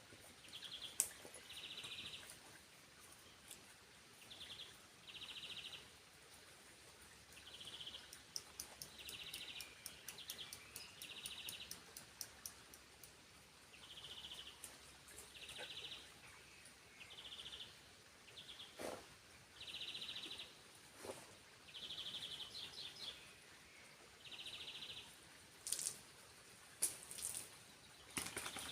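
A bird calling in short buzzy phrases repeated every second or two over faint steady background noise, with a few sharp clicks between the calls.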